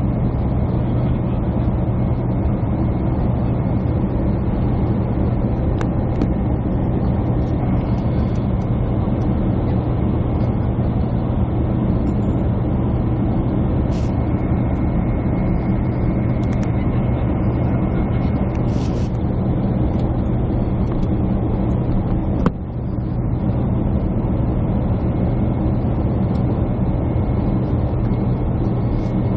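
Jet airliner cabin noise from a window seat: a steady engine and airflow drone with a low hum, broken by a single sharp knock about 22 seconds in.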